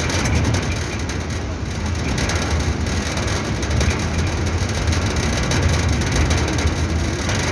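Tata truck's diesel engine running steadily, a continuous low rumble with rattly noise over it.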